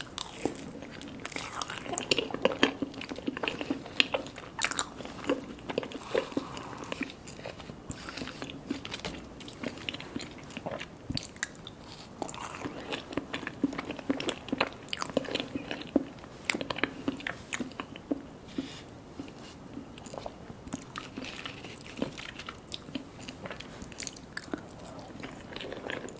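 Close-up eating sounds of mini mousse cakes being bitten and chewed, with many irregular mouth clicks and smacks.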